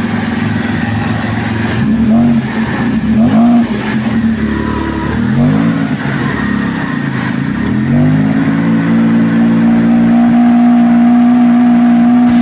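Mitsubishi Galant engine revved briefly three times, then raised about two-thirds of the way in and held at a steady higher speed.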